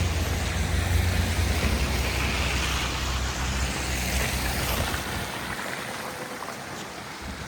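A motor vehicle's engine rumbling close by over street noise, the rumble fading away about five seconds in.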